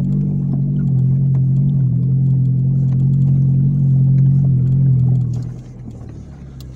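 A car engine droning steadily, then falling much quieter about five seconds in as the vehicle slows.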